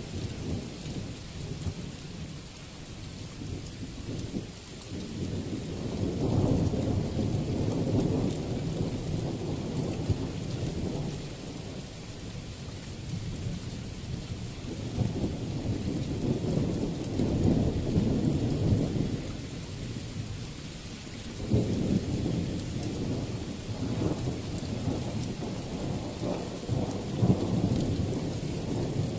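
Thunder rolling in several long low rumbles of a few seconds each, with a steady hiss of rain throughout.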